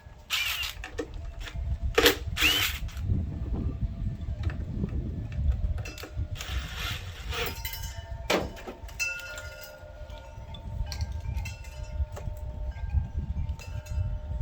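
Hand tools and engine parts being handled under the hood: several sharp clanks and scrapes, one with a short squeak, over a steady low rumble.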